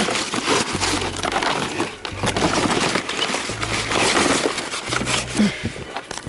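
Cardboard box being crushed and crumpled by hand and stuffed into the middle of a bonfire pile: a dense run of crackling and crinkling.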